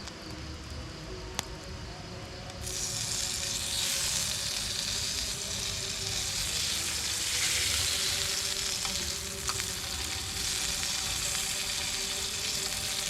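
Food sizzling as it grills on a hot pan. The sizzle starts suddenly about two and a half seconds in as the food goes onto the heat, then carries on steadily, with a few light clicks.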